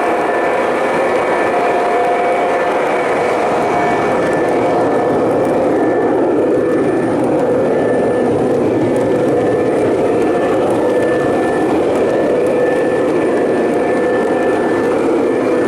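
O scale model train running on three-rail track, a steady, unbroken rumble of wheels and motor with faint steady tones over it.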